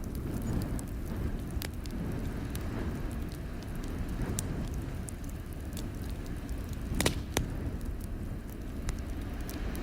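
Wood fire crackling in a fireplace: scattered sharp pops and snaps over a steady low rumble, with a louder pair of pops about seven seconds in.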